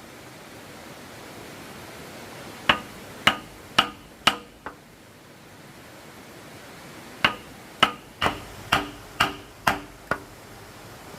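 Hammer blows on wood, each with a short ring: five about two a second, the last lighter, then a pause of a couple of seconds and seven more at the same pace.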